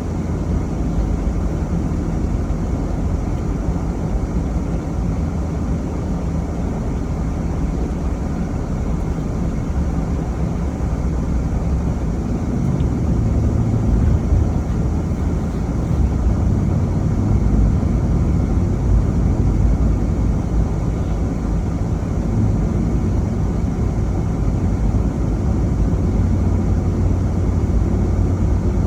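Steady low rumble of a vehicle on the move, engine and tyre noise together, with a low hum that grows stronger about halfway through.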